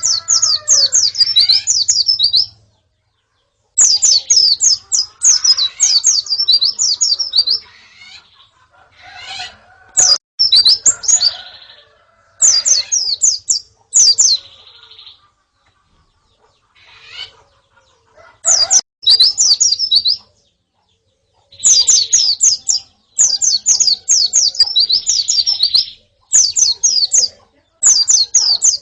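Oriental white-eyes (pleci), a female with a calling colony: rapid runs of high, downward-sliding chirps in bursts of one to two seconds, broken by short silences.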